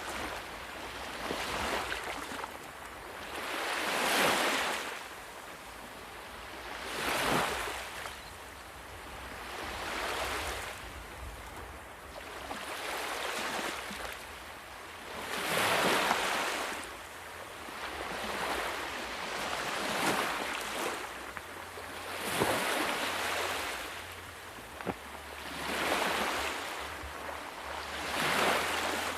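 Ocean waves washing onto a shore: a rushing hiss of surf that swells and fades again every few seconds, with about eight surges.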